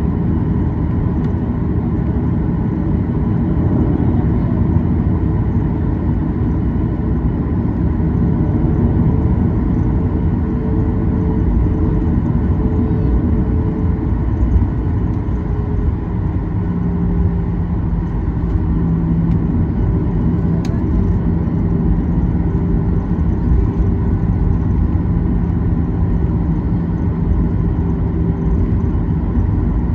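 Cabin noise of a Boeing 737-800 taxiing: a steady low rumble with the hum of its CFM56-7B engines running at taxi power. A stronger low hum comes in about halfway through.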